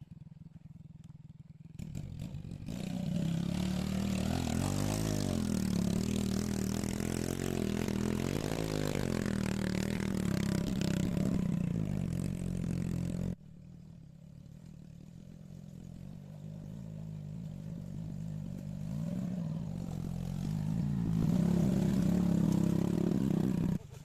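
Heavy vehicle engine running under load, its pitch rising and falling. It cuts off abruptly about halfway through, and a quieter engine sound then swells gradually.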